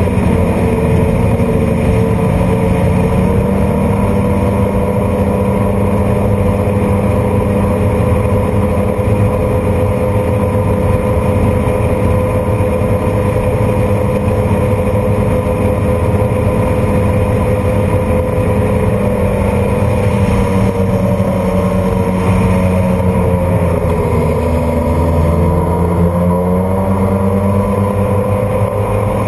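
1995 Sea-Doo Speedster jet boat running at speed, its twin two-stroke Rotax engines holding a steady loud drone. About two-thirds of the way through the engine pitch drops briefly as the throttle eases, then rises back to speed.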